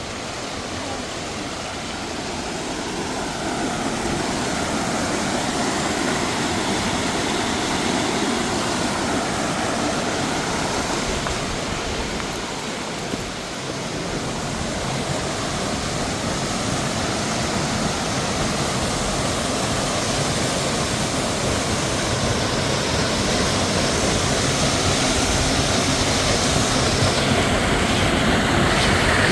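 Steady rush of falling water, a waterfall or cascade over rocks, growing gradually louder.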